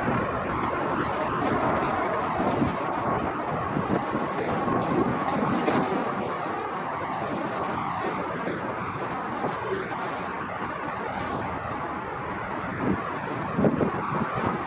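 Union Pacific freight cars (covered hoppers and boxcars) rolling slowly over the rails, a steady wheel-and-rail rumble with irregular knocks.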